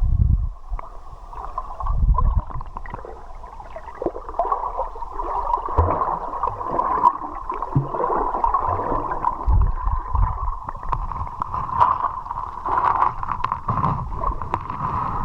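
Muffled underwater sound of a river heard through a camera held under the water: gurgling and rushing current with scattered small clicks and several low thumps.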